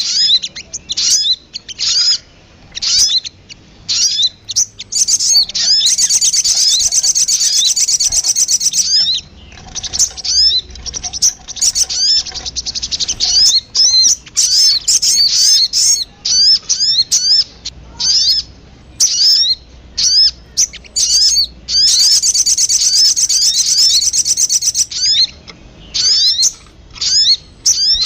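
Sogon bird calling: a quick series of short, high chirps, broken twice by a long, fast trill, about six seconds in and again about twenty-two seconds in. It is a lure recording meant to draw sogon birds in.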